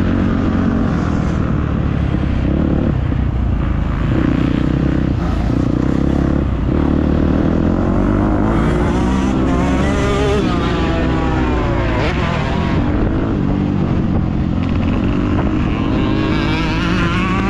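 Motocross dirt bike engine being ridden hard, its pitch rising and falling again and again as the throttle opens and closes and the bike shifts gears.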